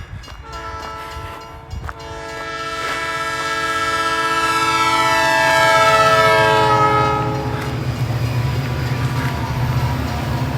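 A passing train sounds a long multi-note horn whose chord drops in pitch as it goes by, then fades out about seven seconds in. The low rumble of the train rolling past grows under the horn and carries on to the end.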